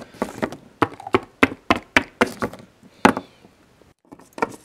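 Plastic Littlest Pet Shop figurines tapped along a hard surface: a quick series of sharp clicks, about three or four a second. They break off about three seconds in, then start again more faintly near the end.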